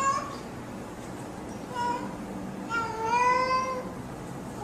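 Calico cat meowing. The end of one meow comes at the start, a short meow about two seconds in, and a longer meow around three seconds in that rises slightly in pitch.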